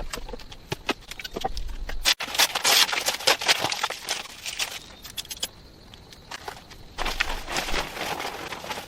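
Irregular clatter and rustling: many small knocks and scrapes, densest from about two to four seconds in and again around seven to eight seconds in.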